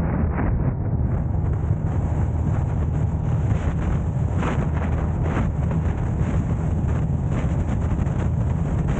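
Car driving: a steady low rumble of road and wind noise buffeting the camera's microphone, with a faint high hiss joining about a second in.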